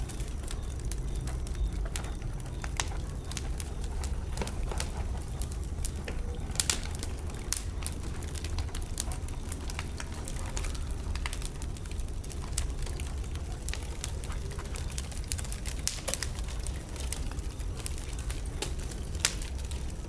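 Wood bonfire burning: frequent, irregular sharp pops and crackles over a steady low rumble.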